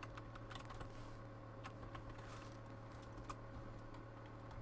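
Faint, scattered clicks and light taps of basketball trading cards being handled and flipped through, over a steady low electrical hum.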